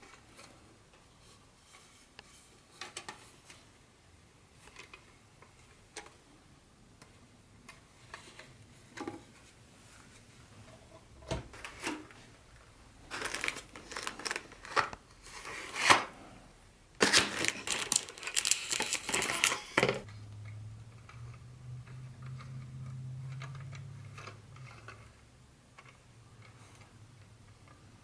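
Packaging handled during an unboxing: scattered light clicks and taps, then two stretches of crinkling and tearing of wrapping material about halfway through. A low steady hum follows for a few seconds near the end.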